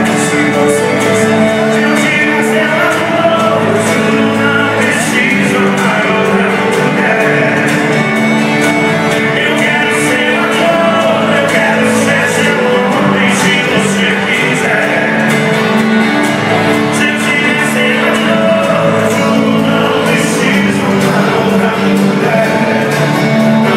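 Live sertanejo band music with singing, continuous and loud.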